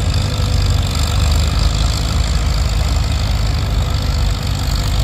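Antique tractor engine running steadily at idle, with a low, even engine note.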